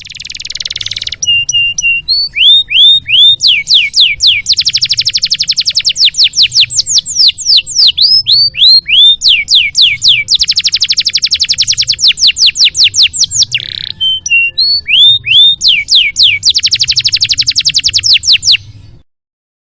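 Domestic canary singing one long, loud song of fast rattling trills alternating with series of repeated down-slurred whistled notes, over a faint low hum. The song stops abruptly near the end.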